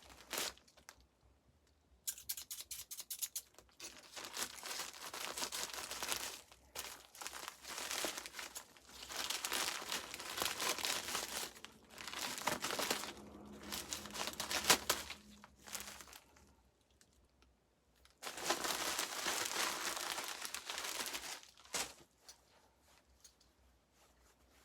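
Mail package being opened by hand: packaging torn and crinkled in several bouts, with a pause of about two seconds past the middle.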